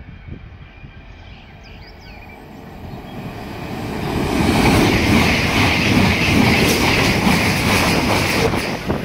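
A 9-car CrossCountry Class 221 Super Voyager diesel-electric multiple unit passing through the station at about 125 mph without stopping. Its noise rises from about three seconds in and is loud and steady from about halfway as the train rushes past the platform. Birds chirp faintly before it arrives.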